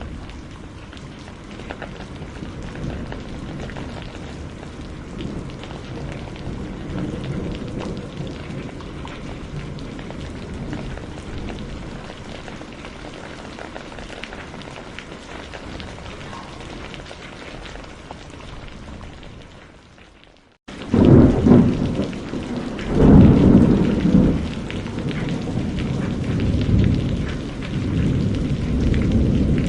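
Steady rain with low rolling thunder. About two-thirds of the way through, the sound fades to a moment of silence, then cuts back in louder with heavy peals of thunder over the rain.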